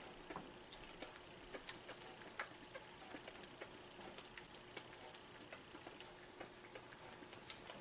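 Faint, irregular small clicks and ticks, several a second, over a quiet steady hum.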